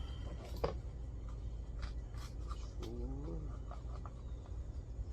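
Scattered light clicks and knocks of parts being handled over a steady low hum, with a short wavering voice-like sound about three seconds in.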